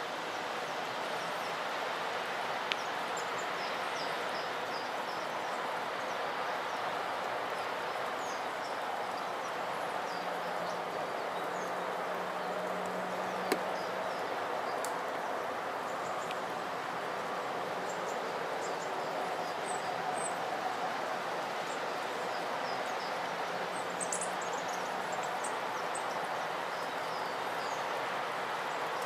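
Faint, short, high-pitched chirps from small wild birds, scattered throughout over a steady hiss of outdoor background noise, with one sharp click about halfway through.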